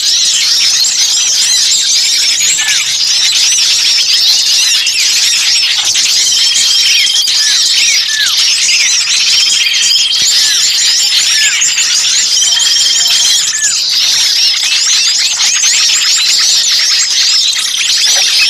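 Many small songbirds calling at once in a dense, excited chorus of high chirps, trills and quick downward slurs, with a short steady whistle three times. This is a bird-lure recording of noisy 'trapped bird' (kejepit) agitation calls, played to draw other birds in.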